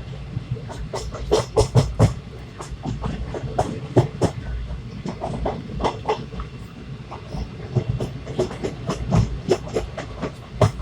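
Passenger train running, heard from inside the coach: a steady low rumble with many sharp clacks and knocks from the wheels and coach.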